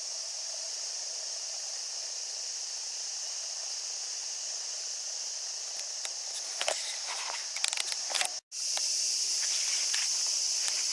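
Cicadas buzzing in a continuous high hiss, with a few footsteps or crunching clicks about two-thirds of the way in. The sound cuts out for an instant a little after that and comes back louder.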